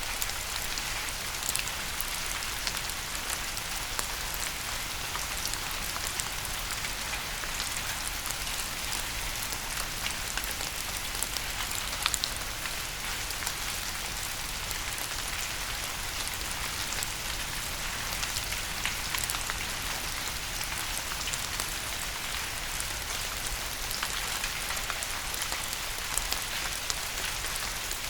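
Steady rain falling on a hard surface: an even hiss, dense with sharp little ticks of individual drops, a few of them louder, one about twelve seconds in.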